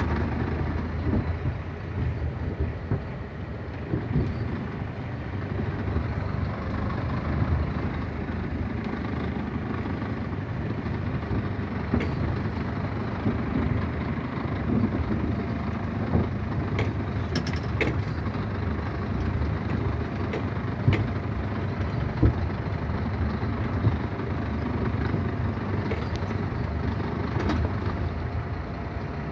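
Scania G380 truck on the move: its engine and road noise run steadily with a deep rumble, and a few short sharp knocks or rattles come through, most of them in the second half.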